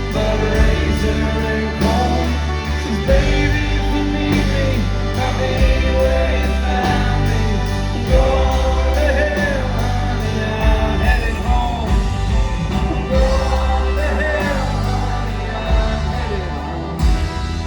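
Live country band playing a song, with a lead vocal over a full band and a steady drum beat.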